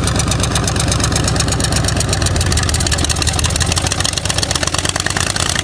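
Fuel-injected car engine running steadily just after a cold start, its low note changing about two seconds in as it is put in drive and takes up load.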